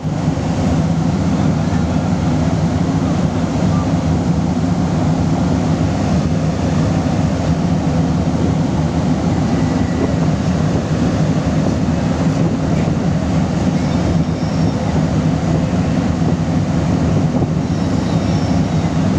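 A ship's engines droning steadily, heard on board: a constant low hum under an even rushing noise.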